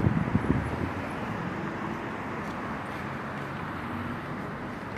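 Road traffic noise: a steady wash of passing vehicles, with a louder low rumble in the first second.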